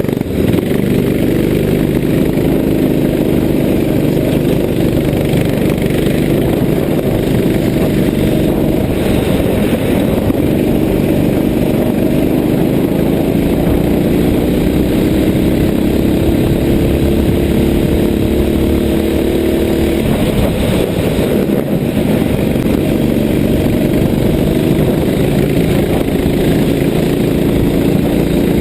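Racing kart engine running hard throughout, heard close up. About halfway through, the engine note climbs steadily for several seconds as the kart accelerates, then drops suddenly and carries on at a lower pitch as it comes off the throttle.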